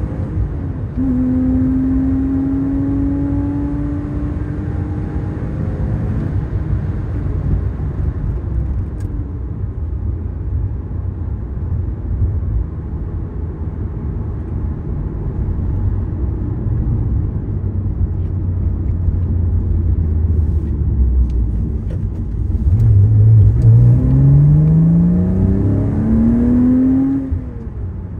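Porsche flat-six engine and road rumble heard from inside the cabin. The engine note climbs under acceleration, dips at a gear change about a second in and climbs again for several seconds, then settles into a steady cruise over tyre rumble; near the end it climbs hard for about five seconds and drops off suddenly.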